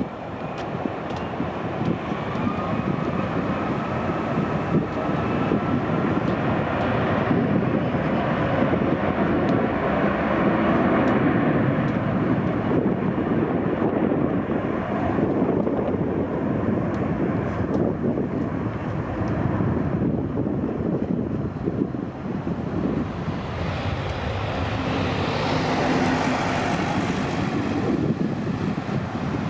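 Boeing 757-200's twin jet engines at takeoff power: a loud, steady jet roar. A faint thin whine sits over it in the first few seconds, and the roar turns hissier in its upper range near the end.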